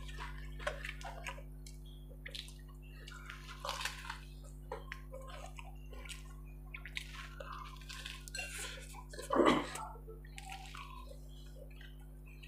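Close-up eating sounds of a man chewing a samosa: wet mouth sounds and short crackling clicks, with one louder wet mouth sound about nine and a half seconds in. A steady low hum runs underneath.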